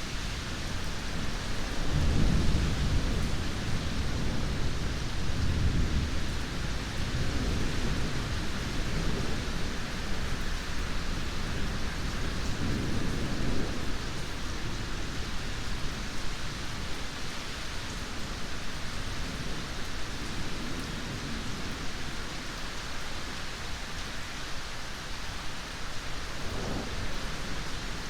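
Steady heavy rain with low rolling thunder that swells several times, loudest in the first few seconds and again about a third of the way in, and faint near the end.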